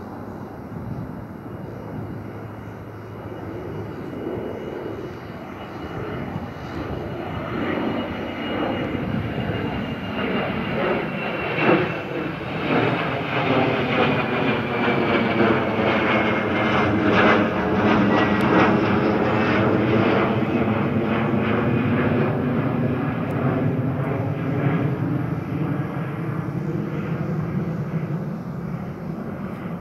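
Jet airliner departing and passing: the engine roar builds, is loudest a little before halfway through, then slowly fades. A high engine whine drops gradually in pitch as the aircraft goes by.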